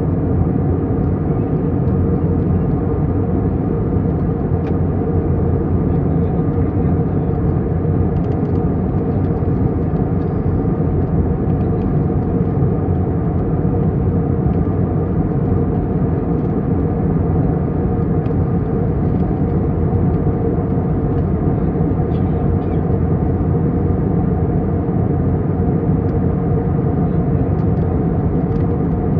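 A vehicle running steadily: a constant, loud low drone that does not change in pitch or level.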